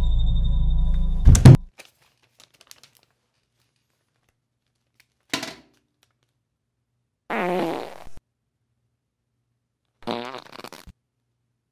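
Exaggerated comedic fart sounds. A long, low fart ends in loud sharp cracks about a second and a half in, followed by three shorter, wavering farts a few seconds apart.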